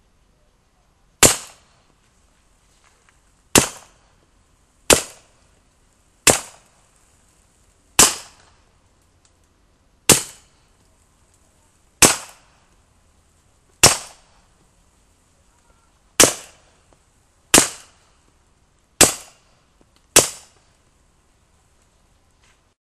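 Beretta 92 pistol fitted with an SWR Trident suppressor, firing subsonic 9mm rounds: twelve suppressed shots at a slow, uneven pace, one every one to two seconds, each a sharp crack that dies away quickly.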